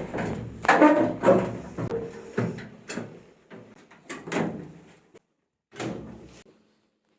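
A series of knocks and clatters from metal parts being handled, several with a short ringing tail.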